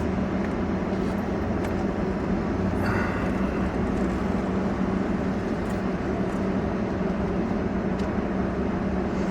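Steady engine and road noise inside a vehicle towing a travel trailer, with a constant low hum, and a short rustle about three seconds in.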